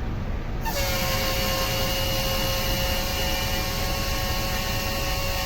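Compressed air hissing into a semi-trailer's air-suspension bags as the lift control is switched to raise them. The hiss starts suddenly under a second in and holds steady, with a whistling tone in it.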